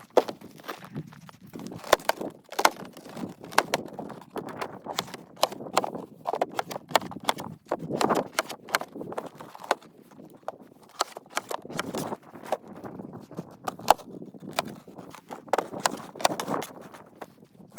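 Footsteps crunching in deep snow, an uneven series of sharp crunches about one or two a second.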